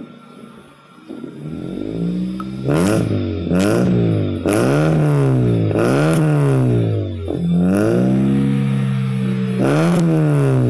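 Toyota Great Corolla's exhaust, through a short homemade custom muffler, as the engine is revved with no load. After a quiet idle it is blipped over and over, the pitch rising and falling each time, with one rev held steady for a moment in between.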